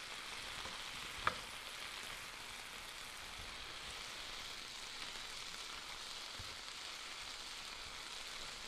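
Stir fry of chicken and vegetables sizzling steadily in a hot electric skillet as it is stirred with a spoon, with one sharp click about a second in.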